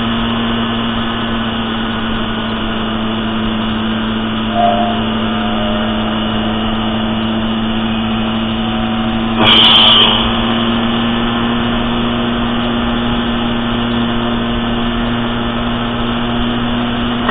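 Small motorbike engine running at a steady cruising speed, its pitch holding even, with wind and tyre noise over it. A brief louder rush of noise about halfway through.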